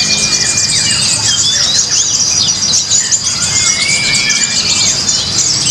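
Many caged kolibri ninja (sunbirds) singing at once in a contest: a dense, high-pitched twittering of fast chirps and short trills, with a few longer whistled notes.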